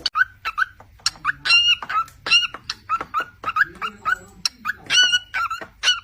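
Pet birds making a rapid series of short squeaky chirps, about two a second, mixed with sharp clicks.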